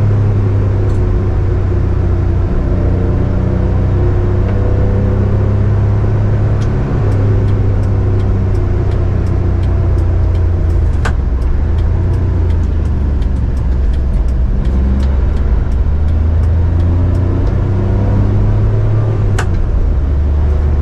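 1995 Mitsubishi Minicab kei truck driving, its 660cc three-cylinder engine running steadily, its pitch slowly rising and falling as engine speed changes. Scattered light clicks, with two sharper ones about 11 and 19 seconds in.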